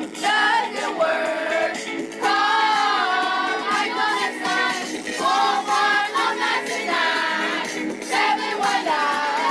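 A group of children singing an advertising jingle over a backing track with a steady beat.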